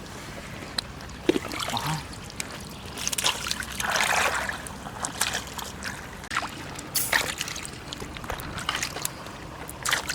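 Water trickling and sloshing, with scattered small clicks and knocks and a louder wash of water about four seconds in.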